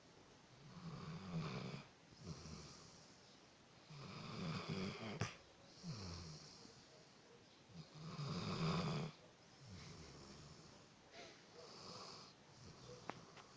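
Central Asian Shepherd Dog (alabai) snoring loudly in its sleep, a snore on each breath every few seconds. A single sharp click comes about five seconds in.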